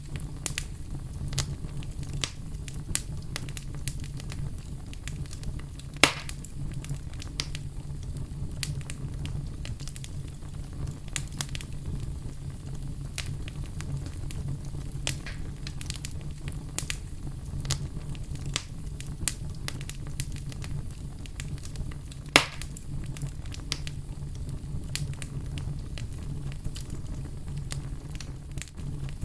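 Fire crackling steadily over a low rumble of flame, with irregular small snaps and two louder pops, about six seconds in and near 22 seconds.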